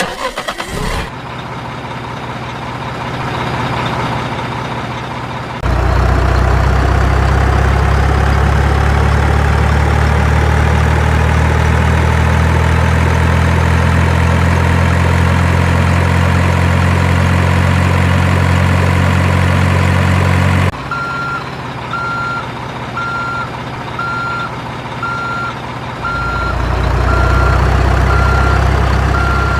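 Dump truck engine running steadily and loudly, with a slowly rising whine. It cuts off suddenly about two-thirds of the way in, giving way to a quieter engine and a reversing alarm beeping at an even pace, about once a second; the engine grows louder again near the end.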